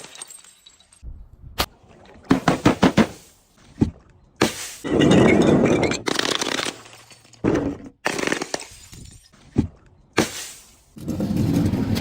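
Objects being crushed and breaking: a quick run of sharp cracks, then longer crunching bursts, with quiet gaps between.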